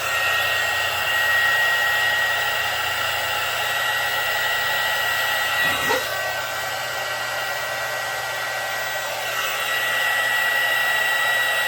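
Small handheld blowtorch running with a steady hiss and a high whistle, heating a soldered wire joint.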